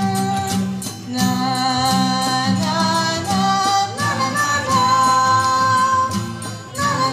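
A woman singing a slow melody in long, wavering held notes, accompanied by a guitar that keeps up a steady low rhythm.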